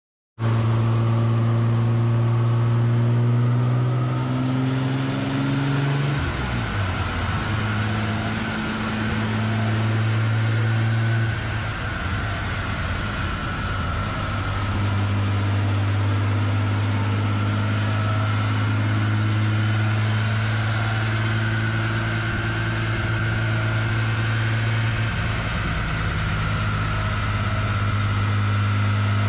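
Nissan 300ZX Z32's V6 engine, a high-horsepower build on E85, idling steadily on a chassis dyno, cutting in suddenly just after the start. The idle note shifts slightly a few times, with a steady higher whine running over it.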